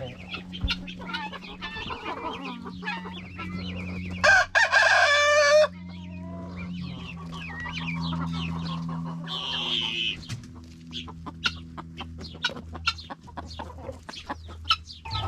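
Chickens clucking, with a rooster crowing loudly once about four seconds in for about a second and a half. A steady low hum runs underneath.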